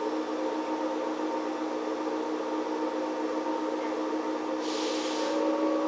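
Interior sound of a JR 115-series electric multiple unit car (MoHa 114-102), a steady hum made of several constant tones with no change in pitch. About four and a half seconds in there is a short hiss lasting about half a second.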